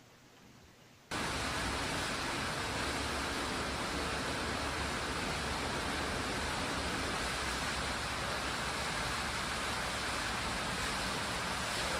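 Near silence, then a steady rushing hiss starts abruptly about a second in and holds evenly, with no pitch or rhythm.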